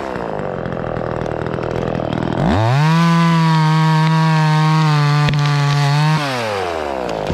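Gas chainsaw idling, then revved to full throttle about two and a half seconds in and held there for about three and a half seconds before the throttle is released and it winds back down to idle.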